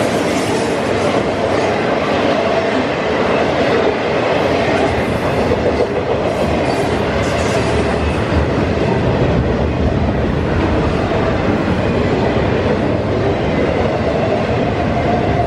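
Freight train passing, its cars rolling steadily over the rails with a continuous clatter of wheels.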